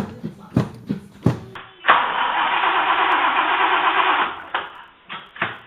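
1961 Buick LeSabre's V8 being cranked over by its starter on a cold start, after two months of sitting, for about two seconds. The cranking stops abruptly without the engine settling into a run. A few sharp clicks and knocks come before and after it.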